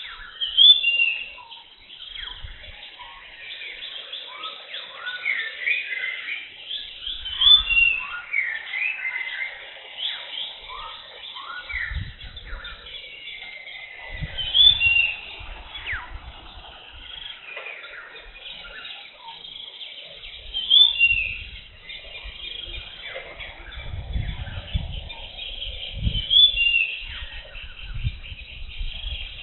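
Tropical forest birds chirping and calling in a dense chorus, one call repeating about every six seconds as the loudest sound. Low rumbles come and go underneath now and then.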